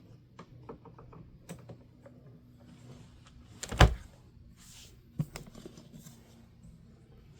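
Scattered plastic clicks and taps from a Honeywell HT-900 fan's front grille being handled and fitted into alignment, with one louder knock near the middle and a sharp click about five seconds in.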